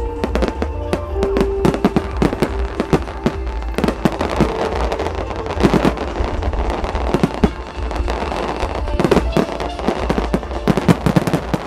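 Starmine fireworks going off: a rapid, dense run of bangs and crackles, several a second, over music played through loudspeakers.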